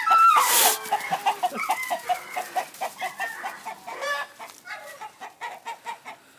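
Chickens calling. A rooster's crow ends on a falling note in the first second, followed by rapid clucking that grows fainter toward the end.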